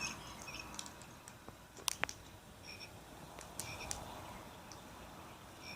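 Faint electronic frog chirps from a Fisher-Price Rainforest playmat's rainforest sound effects, short two-pitch calls repeating every second or so. A couple of sharp clicks about two seconds in.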